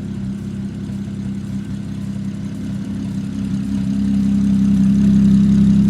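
Single-turbo BMW N54 3.0-litre inline-six idling steadily while it warms up to operating temperature, growing louder from about two seconds in.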